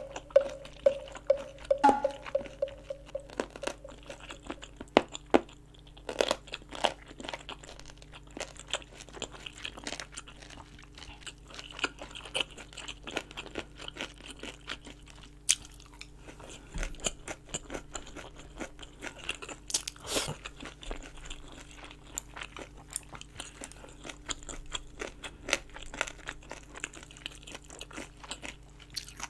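Close-miked chewing and biting of braised kimchi rolled around pork belly: many short crunches of the kimchi cabbage, one after another.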